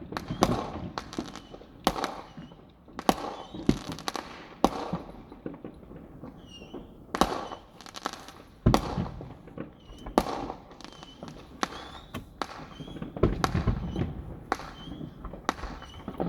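Fireworks going off: an irregular string of sharp bangs and crackles, one or two a second, with several heavier booms among them.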